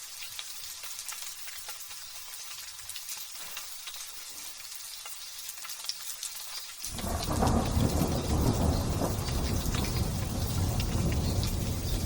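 Light drizzle falling as a steady hiss of small raindrops. About seven seconds in, a loud rumble of thunder breaks in suddenly and rolls on for about five seconds before dropping away.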